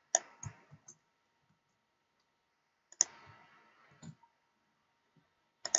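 A few isolated clicks of a computer mouse and keyboard: one just after the start, one about three seconds in, and a quick pair near the end.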